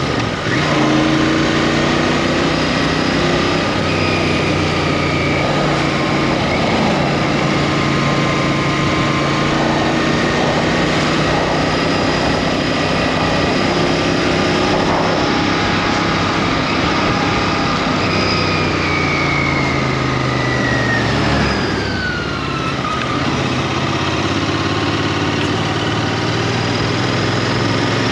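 Royal Enfield Interceptor 650's parallel-twin engine running on the road, its pitch rising and falling several times with the throttle, including a long drop about 18 to 22 seconds in, over steady wind rush.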